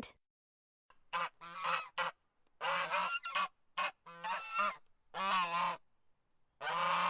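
Geese honking: a run of about nine separate honks starting about a second in, the first ones short and choppy, the later ones longer.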